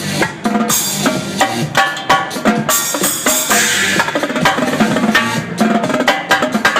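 A drum kit, Mapex drums with Paiste cymbals, played live in fast, dense strikes over an electronic dance music track, with a stretch of cymbal wash in the middle.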